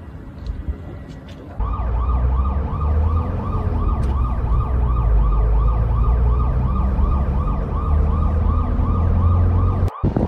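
Emergency vehicle siren sounding a fast yelp, about three rising-and-falling cycles a second, over a heavy low rumble. It starts about one and a half seconds in and cuts off abruptly just before the end.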